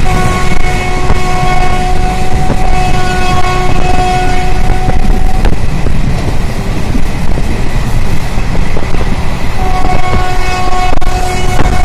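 Passenger train running at speed with a steady, loud rumble of wheels on rail, heard from inside a carriage at an open barred window. A train horn sounds two long blasts over it: one for about five seconds from the start, and another starting near the end.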